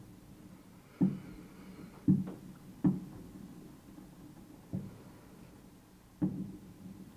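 Distant fireworks bursting: about five dull booms spread over six seconds, each followed by a short rumbling tail, with a faint crackle after the first.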